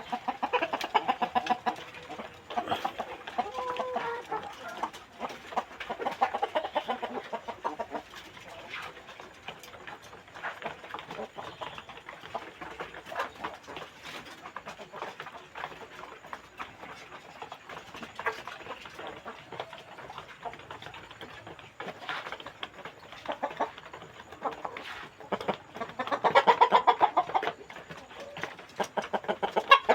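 A flock of Indonesian village chickens (ayam kampung) clucking continuously. The clucking swells louder about a second in, again around six seconds, and strongest near the end.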